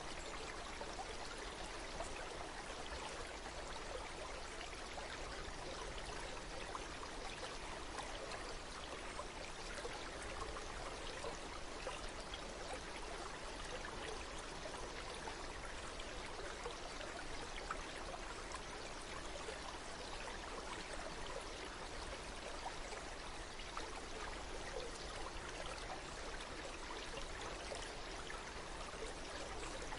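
A stream of running water flowing steadily, with no change throughout.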